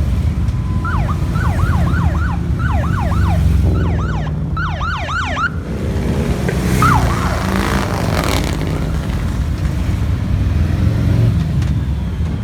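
Motorcycle engines rumbling as the parade passes. Over them, a siren gives a quick run of short falling chirps, about three a second, for a few seconds, then one more chirp a little later.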